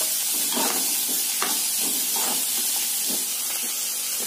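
Chopped onions and green chillies sizzling in hot oil in a kadai with a steady hiss, while a slotted steel spatula stirs and scrapes across the pan about four times.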